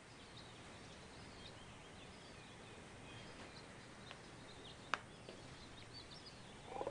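Faint outdoor ambience with light, scattered bird chirps and a single sharp click about five seconds in. A louder pulsing sound starts right at the end.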